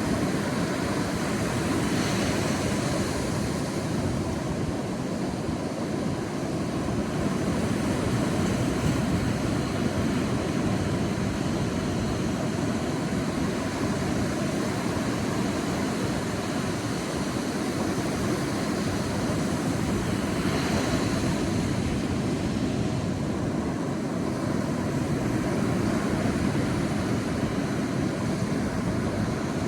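Sea surf washing steadily onto a beach, a continuous rushing wash, with two waves breaking a little brighter, about two seconds in and again about twenty seconds in.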